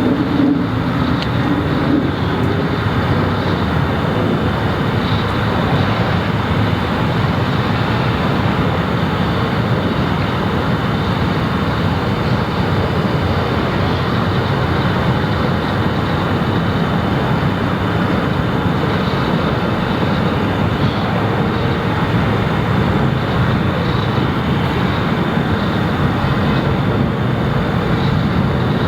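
Jet airliner engines running at takeoff thrust for the takeoff roll: a loud, steady rumble that holds an even level throughout, with a faint high steady tone above it.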